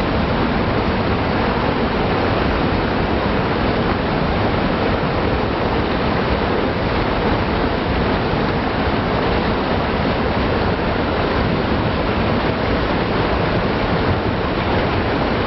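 Monsoon-swollen stream rushing and splashing over rocks, a loud steady rush of water.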